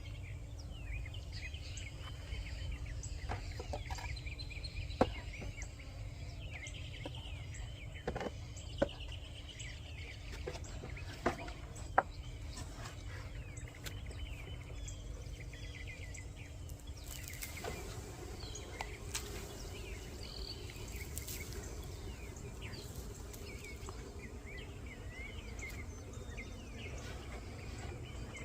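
Farmyard outdoor ambience: chickens clucking and small birds chirping, over a steady low hum and a rumble of wind. A few sharp knocks stand out.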